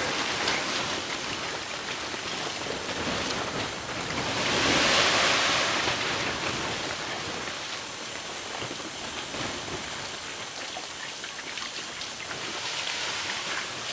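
Storm wind rushing steadily in a snowstorm, swelling in a gust about four to six seconds in.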